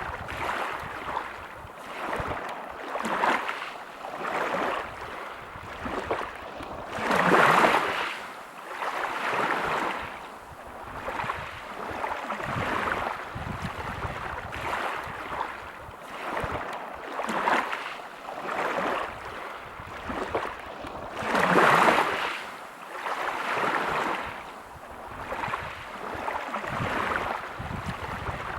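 Sea waves breaking on a pebble beach, washing in and out in repeated surges every couple of seconds. Two bigger waves crash about seven seconds in and again near twenty-one seconds.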